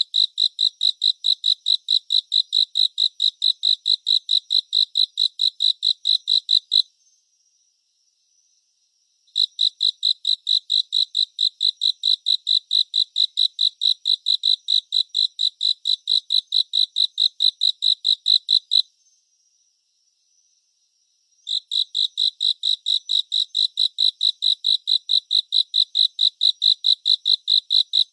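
Cricket chirping: a fast, even run of short, high-pitched chirps, about six a second, that stops twice for two or three seconds before starting again.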